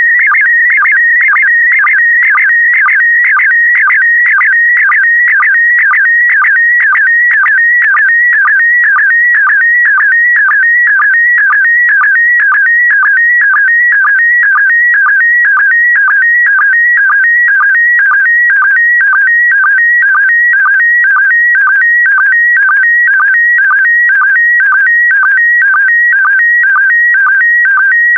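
Slow-scan TV signal in PD120 mode: a loud, warbling electronic tone around 2 kHz that shifts rapidly in pitch, with a short lower beep repeating about twice a second as each pair of picture lines is sent. This is the image data of an SSTV picture being transmitted.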